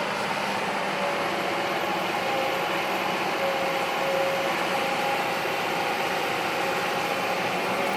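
Heavy diesel construction machinery running steadily, with a wavering whine over the engine.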